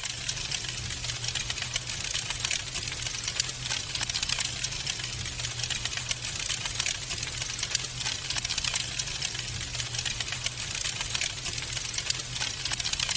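Wood fire crackling: a dense, continuous run of small sharp pops and snaps over a steady low hum, with one louder snap about eight seconds in.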